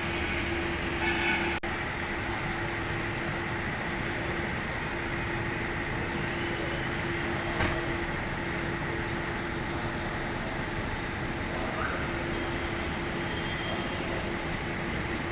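Car running steadily, an even road and engine noise with a constant hum, with a sharp click about a second and a half in and another about seven and a half seconds in.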